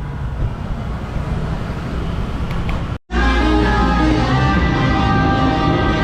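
Road noise from a motorbike ride in traffic, then an abrupt cut to a moment of silence about halfway through, followed by background music with steady held notes.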